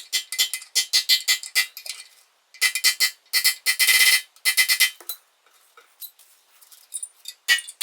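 Rapid runs of light metallic clicks, each with the same short ring, about six to eight a second, in two bursts with a brief pause between, then mostly quiet apart from a click near the end.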